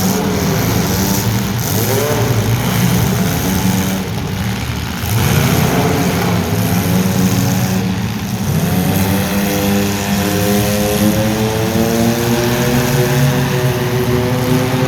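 Motor vehicle engines running and revving, with several overlapping engine notes and the pitch sweeping up again and again.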